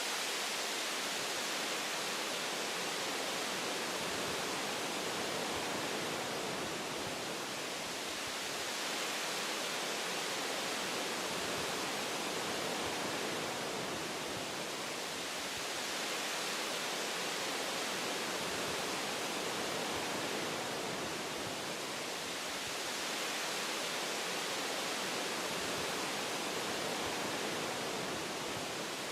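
Wind blowing through forest tree branches, a steady hiss that eases and swells gently every few seconds.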